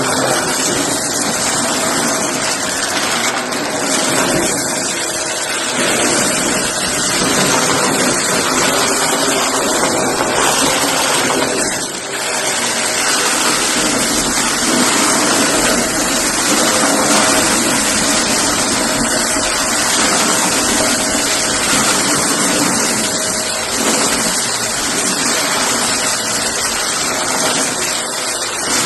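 Shark vacuum cleaner running steadily, sucking up pieces of cardboard, with a brief dip in its sound about twelve seconds in.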